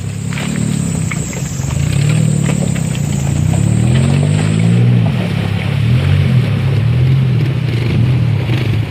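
A vehicle engine running close by, its pitch rising and then falling back between about three and five seconds in, with a few light clatters over it.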